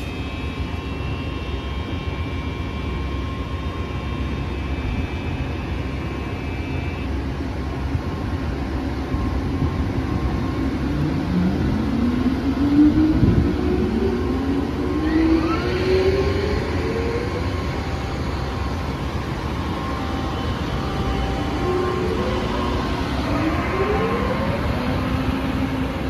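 Train running through the station with a steady rumble; a motor whine rises in pitch about halfway through and again near the end as the train gathers speed.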